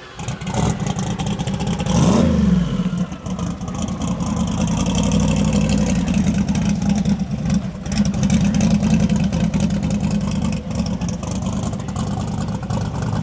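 Car engine revving briefly about two seconds in, then running with a steady low rumble.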